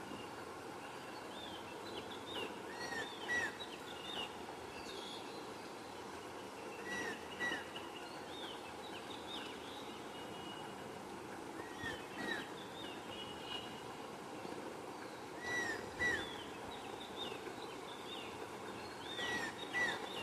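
Birds chirping: short, hooked notes repeated in small clusters every few seconds, over steady background noise.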